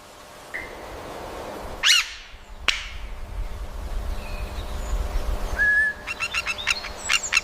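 Bird calling: a sharp falling chirp about two seconds in, a short whistled note, then a fast run of short chirps near the end.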